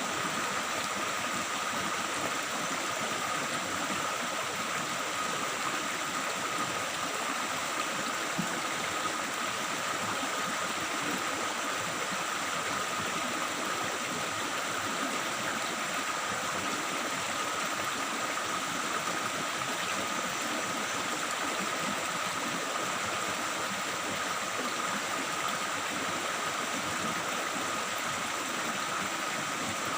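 A stream's water babbling and splashing steadily over rocks, with a thin steady high tone running underneath.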